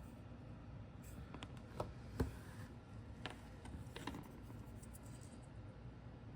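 Small resin model figures and parts being handled: a few faint, sharp clicks and taps, scattered a second or so apart over a quiet room tone.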